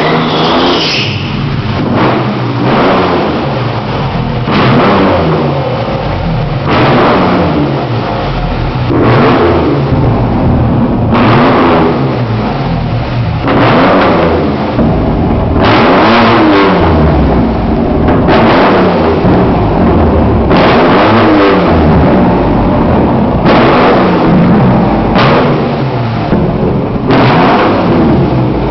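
A Dodge RT's V8 engine is blipped over and over, about once every two seconds. Each blip of the throttle surges up, then drops back to a lumpy idle. It is revved hard enough to make the exhaust spit flames.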